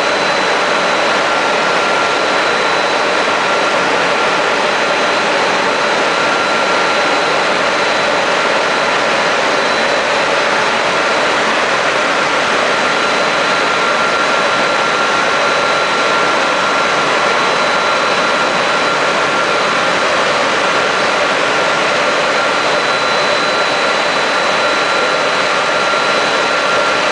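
Automatic car wash machine running: a steady rushing hiss with a constant high whine, unchanging throughout.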